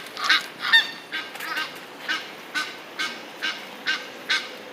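Waterfowl honking repeatedly, short calls at about two a second.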